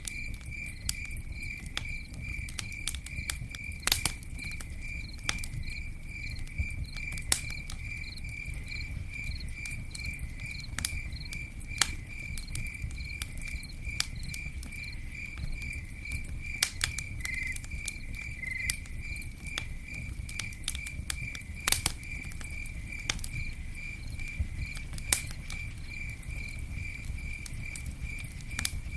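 Campfire burning, with irregular crackles and a few sharper pops over a steady low rumble. A cricket chirps steadily throughout in an even, rapid pulse.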